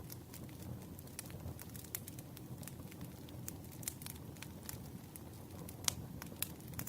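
Campfire crackling: a steady low rush of burning flames with frequent sharp snaps and pops at irregular intervals, the loudest pop about six seconds in.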